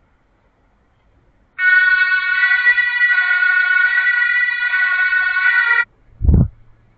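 Train horn sounding one steady multi-tone blast of about four seconds that cuts off sharply, followed by a short, loud low thump.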